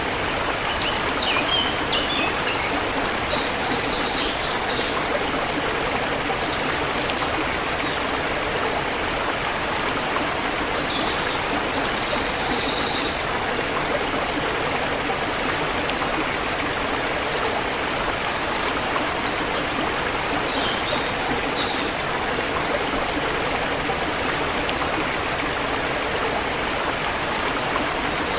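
Forest river water flowing steadily, with birds chirping high above it in three short bouts: near the start, about ten seconds in, and about twenty seconds in.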